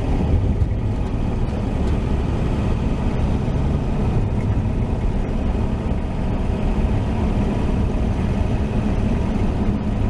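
1949 Chevrolet 3100 pickup's 235 inline-six running steadily through its dual exhaust while cruising at a constant pace.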